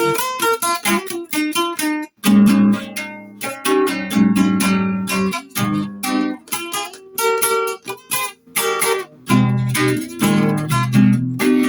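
Guitar improvisation: runs of plucked notes and strummed chords, with short breaks in the playing about two seconds in and again past the middle.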